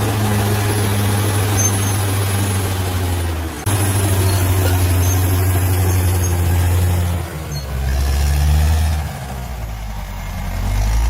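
Bulldozer's heavy diesel engine running steadily under work. The engine note drops lower about seven seconds in and comes back up near the end.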